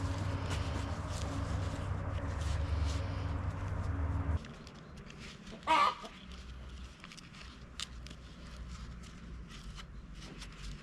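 A steady low hum that cuts off abruptly a little before halfway, then a single short, loud chicken squawk, followed by faint scattered clicks.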